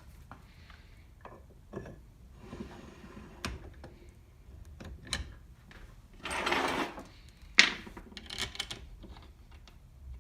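Tools and metal parts being handled on a workbench: scattered clicks and knocks, a short scraping rush about six seconds in, and one sharp clack a little later.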